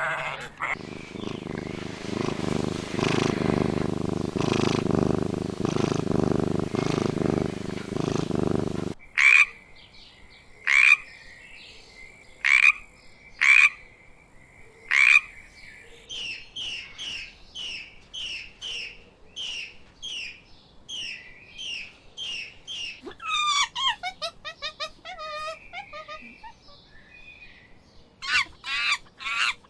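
A sequence of different animal calls: a dense, pulsing chorus of calls for about the first nine seconds, then a handful of sharp single calls about a second and a half apart, followed by a quick run of short repeated calls at about two a second and a falling call near the end.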